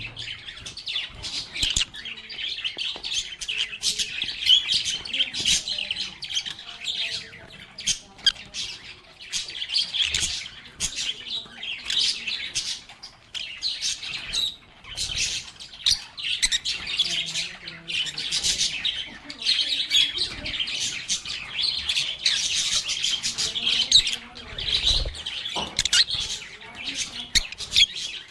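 A group of lovebirds chirping and chattering without pause, a dense overlapping stream of short, high calls.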